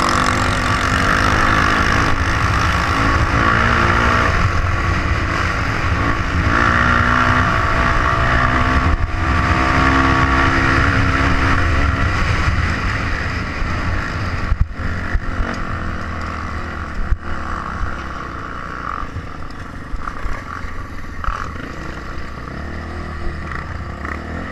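Trail motorcycle engine running under way, its pitch rising and falling with the throttle. It gets quieter in the second half, with a couple of sharp knocks.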